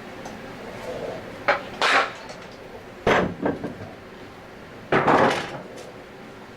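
Metal tools and parts clanking and knocking in about five separate clatters, the last one longer, during disassembly of an Anest Iwata scroll compressor as its needle bearing is being removed.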